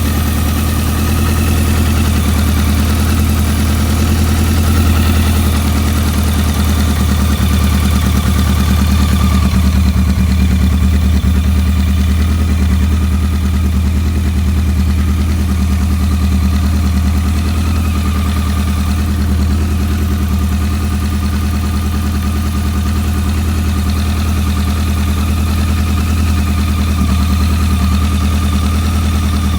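BMW K100's inline four-cylinder fuel-injected engine idling steadily.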